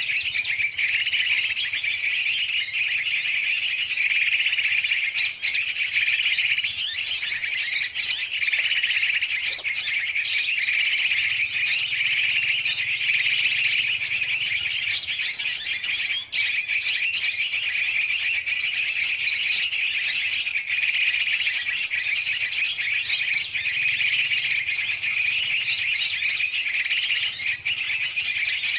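Bird-lure recording: a dense, unbroken chorus of many large and small birds chirping and chattering at once, used to draw yellow-vented bulbuls (trucukan) and other birds in to be caught.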